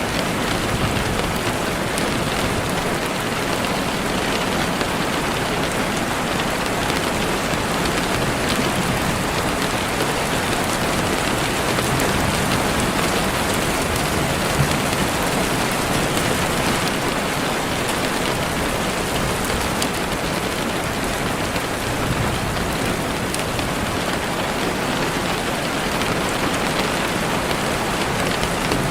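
Steady heavy rain falling on leaves and the forest floor, a dense even hiss with scattered drop patters.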